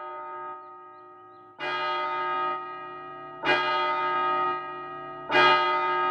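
A clock bell striking four slow strokes about two seconds apart, each ringing on and each louder than the last, as a cartoon sound effect for time running out.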